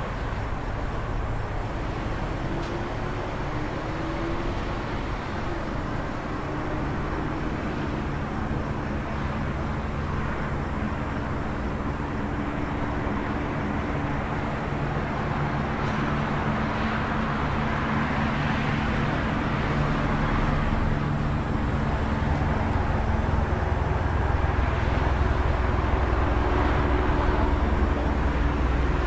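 City traffic ambience: a steady wash of road noise with vehicle engines humming. It grows gradually louder through the second half, with a deeper rumble building near the end.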